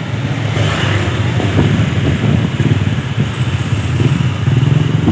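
Small motorcycle engine running steadily as it rides along, its exhaust a low even pulsing, with a brief gust of wind on the microphone about a second in.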